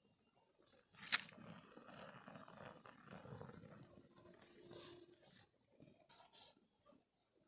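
A sharp click about a second in, then a few seconds of faint rustling and crunching of dry twigs and grass being handled to build a campfire.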